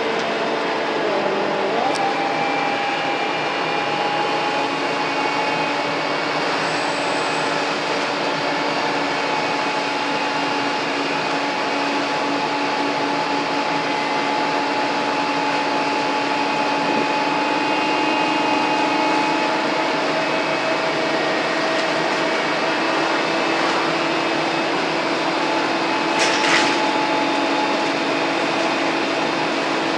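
Scania N230UD double-decker bus's diesel engine pulling under load with its vacuum-cleaner-like "Hoover thrash" whine, heard from inside the bus. The pitch shifts at a gear change a second or two in, then holds steady and slowly rises. There is a brief click near the end.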